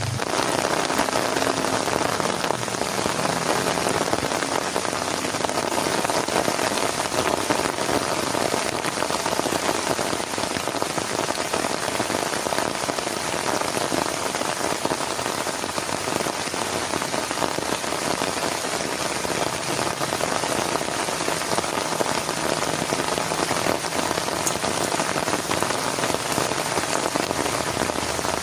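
Heavy rain falling steadily, a dense unbroken patter of drops striking a surface.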